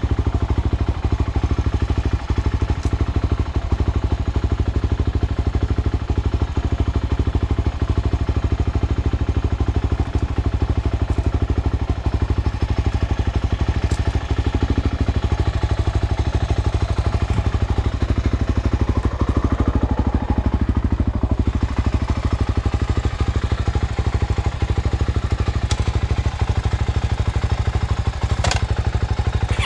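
Dirt bike engine running steadily under way, heard up close from the bike carrying the camera, at an even throttle with no big revs, over a constant rattle and rush of riding noise.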